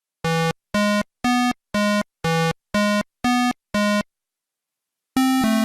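Electronic synthesizer tune: eight short buzzy notes at about two a second, stepping up and down in pitch, then after a pause a longer note that drops to a second pitch near the end.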